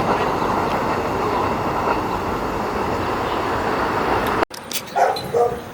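Staten Island Railway train running with a steady rumble that cuts off abruptly about four and a half seconds in, followed by a few short, sharp sounds.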